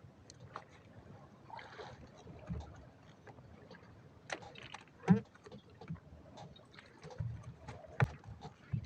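Scattered knocks and clicks of gear being handled in a small fishing boat, over water lapping. The loudest knocks come about five seconds in and again about eight seconds in.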